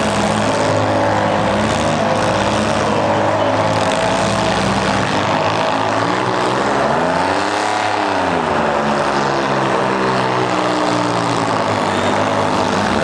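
Several mini-class demolition derby car engines running and revving together, one revving up and back down about seven seconds in.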